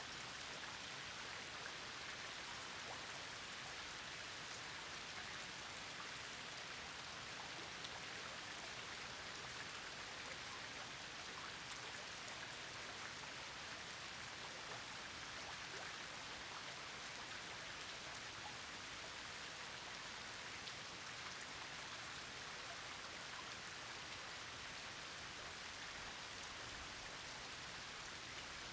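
Steady rain falling: an even hiss of drops with faint separate drop ticks scattered through it.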